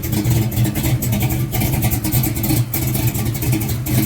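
Big-block V8 idling with a lumpy, choppy cam idle, "bumping", its exhaust note pulsing unevenly.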